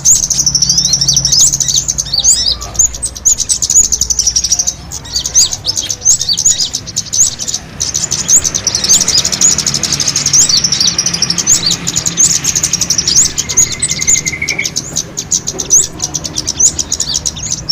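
Small birds' fighting calls: a dense, unbroken stream of rapid, overlapping high chirps, many of them quick upward sweeps, with a short lower trill about two-thirds of the way through. It is a bird-trapping lure recording, played to draw in more small birds.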